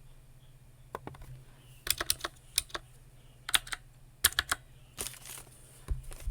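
Typing on a computer keyboard: keys clicked in short, uneven runs, starting about a second in.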